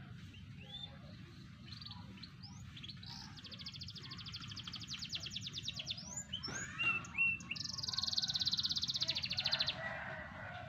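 Young domestic canary, four to five months old, singing: short upslurred chirps, then two long rapid high trills, the second the loudest, with a few separate whistled notes between them.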